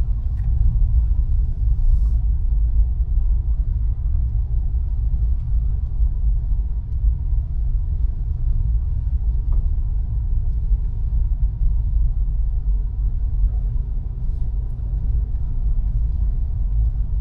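Vehicle driving slowly: a steady low road and engine rumble.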